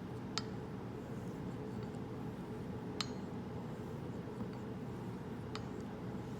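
Three light metallic clinks, about two and a half seconds apart, from a straight razor's blade and spine tapping the hone as it is turned over between honing strokes, over a steady low background hum.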